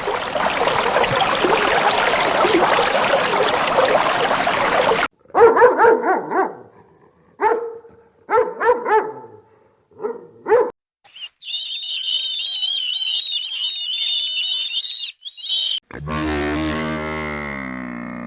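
A series of separate animal sounds. A dense, noisy chorus lasts about five seconds, then a dog barks in several short bursts, then a high warbling call follows, and a low drawn-out call with falling pitch comes near the end.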